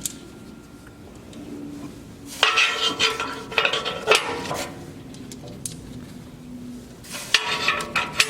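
Steel wood-stove parts clanking and scraping as they are slotted together by hand. There are two bursts of ringing metal knocks, one a few seconds in and one near the end.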